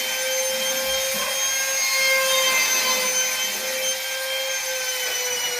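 Electric power tool motor running steadily with a high whine over a hiss of cutting or rubbing, its pitch sagging slightly near the end.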